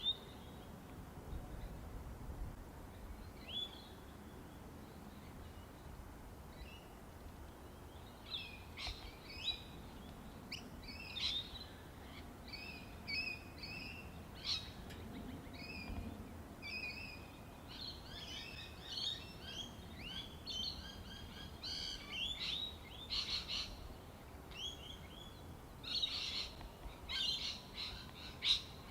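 Birds chirping and calling: many short, repeated high chirps, sparse at first and busier after several seconds, over a faint low background hum.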